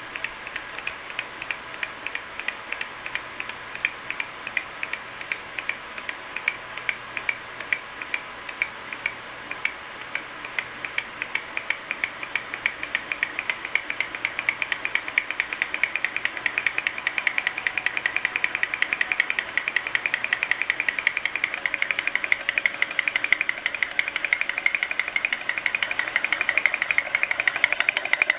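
Homemade candle-heated thermoacoustic (laminar-flow) engine running and ticking rhythmically. The ticks start at about two or three a second and speed up steadily as the engine gathers speed after starting by itself.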